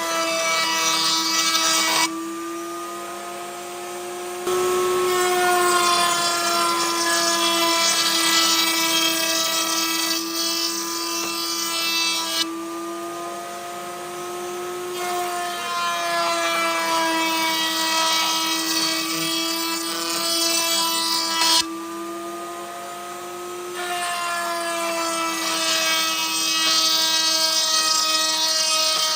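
Electric woodworking power tool running with a steady whine, cutting into wood in loud stretches that drop back to the tool spinning freely three times.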